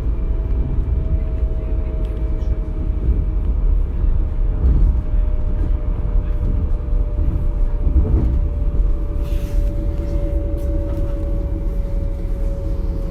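DB Class 425 electric multiple unit running, heard from inside the car: a steady low rumble with a whine that drifts slightly lower in pitch.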